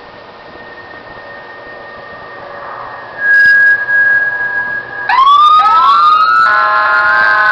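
Electronic police siren: a faint steady tone, then a loud steady beep about three seconds in, and from about five seconds repeated rising sweeps that overlap with steady tones.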